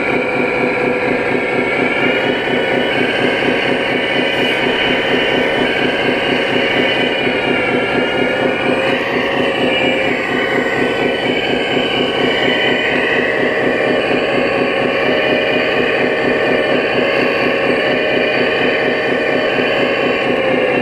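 Radio-controlled 1/14-scale construction machinery running: a steady diesel-engine note with motor and hydraulic whine that drifts up and down in pitch.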